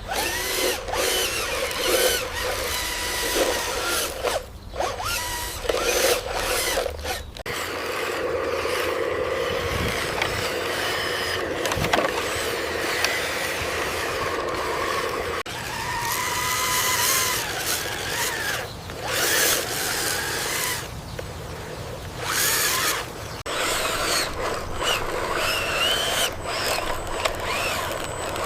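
Small electric motors and gearing of toy-scale RC construction machines whining as they run, rising and falling in pitch, with frequent clicks and scraping throughout.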